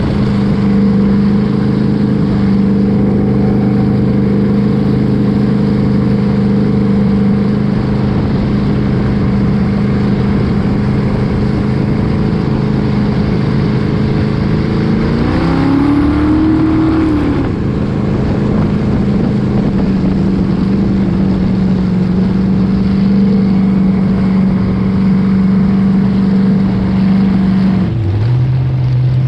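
An engine running steadily at one speed. About halfway through, a second engine tone rises and falls as something passes by. Near the end the engine note drops to a lower pitch.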